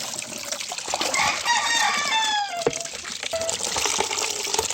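Water running steadily from a tap or hose. About a second in, a rooster crows once over it, the call falling in pitch at its end.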